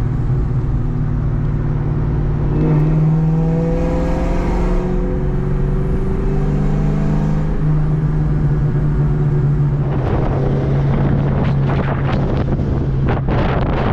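Car engine running while driving; its pitch climbs a few seconds in as it accelerates, then holds steady. Irregular rushing noise joins in the last few seconds.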